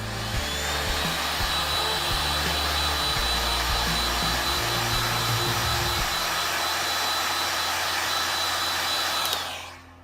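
Electric hot-air blower running steadily with a high motor whine, switched on at the start and shut off about nine seconds in, typical of heating PVC pipe to soften it.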